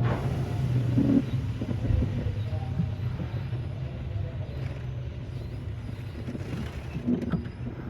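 Kintetsu 9200 series electric train running, heard from inside the car: a steady low rumble of wheels and running gear with a few short knocks, gradually getting quieter.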